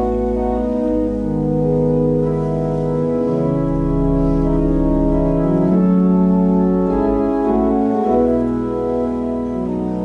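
An organ plays slow, sustained chords over a held bass note, moving to a new chord every second or two.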